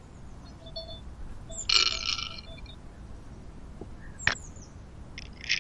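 Birds calling in short chattering bursts, about two seconds in and again near the end, over a low steady outdoor rumble, with one sharp click about four seconds in.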